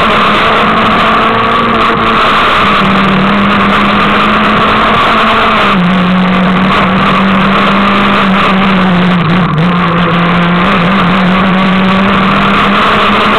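A Peugeot 306 S16's 2.0-litre 16-valve four-cylinder engine runs loud and hard, heard from inside the car. Its pitch steps down about six seconds in, dips again near ten seconds and rises toward the end.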